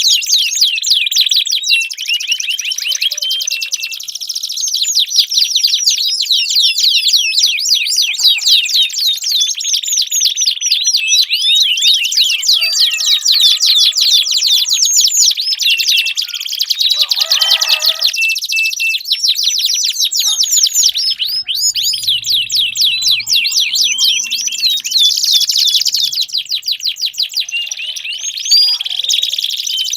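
Domestic canaries in full song: long, unbroken runs of fast repeated high notes and rolling trills, several phrases overlapping with hardly a pause.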